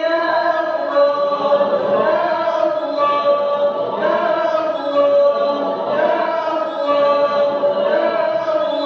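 Arabic prayer chanted in a slow, melodic style, with long drawn-out held notes, as in Quran recitation or supplication during the tahajjud night prayer.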